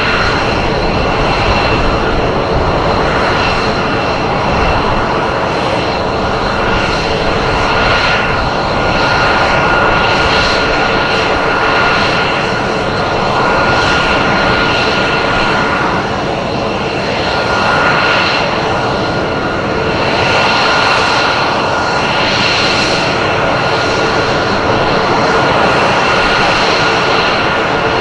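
Aircraft engine noise: a loud, steady drone with several fixed whining tones on top, swelling and easing slightly.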